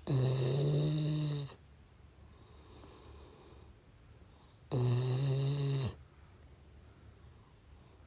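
Sleeping Labrador retriever snoring: two loud snores, each over a second long and holding a steady pitch, about four and a half seconds apart.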